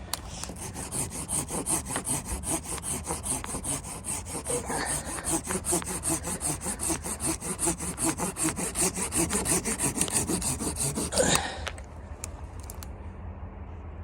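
Hand saw cutting through wood in quick, rhythmic back-and-forth strokes, about three a second, for roughly eleven seconds before stopping.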